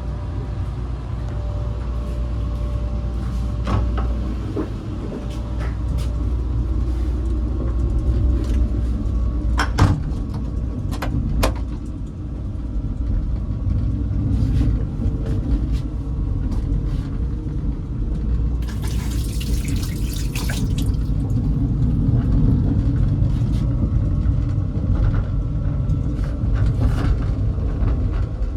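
Steady low running rumble of a KTX-Cheongryong high-speed train heard from inside the carriage, with scattered light clicks and knocks. A brief hiss about two-thirds of the way through.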